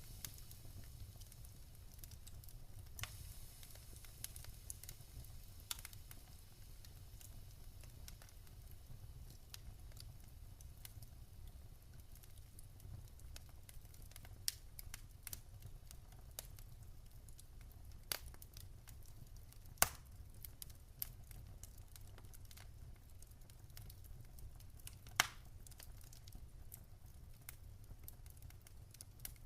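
Wood fire crackling softly in a fireplace, with scattered sharp pops, the loudest about twenty and twenty-five seconds in, over a low steady rumble.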